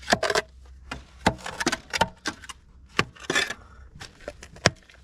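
Digging work at a rusted culvert pipe: irregular sharp knocks of a hand tool striking rock and concrete, with two short scrapes, one at the start and one a little past the middle.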